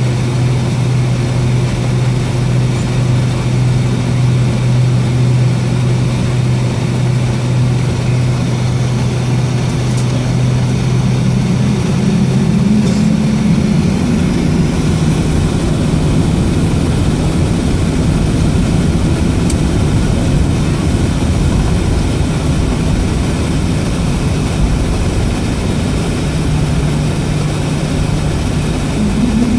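Cabin noise of a Boeing 757-232 taxiing, its Pratt & Whitney PW2037 turbofans at low thrust: a steady low hum whose pitch steps up about thirteen seconds in.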